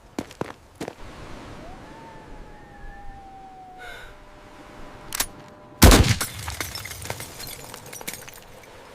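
Battle sound effects: scattered gunshots, a thin whistle that rises and then slowly falls, more shots, then a loud explosion about six seconds in that dies away slowly.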